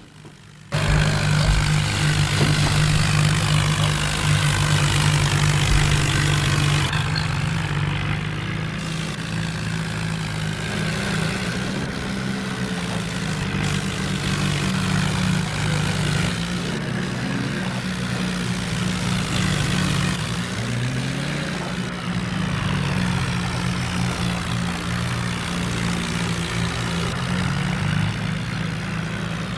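Heavy tractor diesel engine running loud and steady; it cuts in suddenly just under a second in and keeps a deep, even note to the end.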